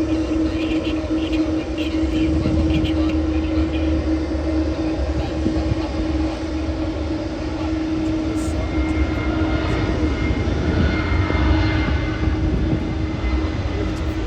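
Jet airliner's engines running loudly at close range: a deep rumble under a steady hum, with a higher whine joining about two-thirds of the way through.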